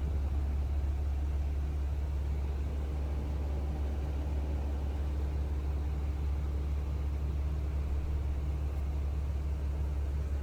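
Seagrave Attacker fire engine's diesel engine idling, a steady low rumble with a faint steady hum above it.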